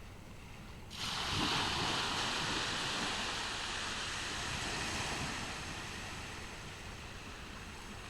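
Sea wave breaking on a beach about a second in, its hissing wash fading slowly over the following seconds, over a low steady rush of surf.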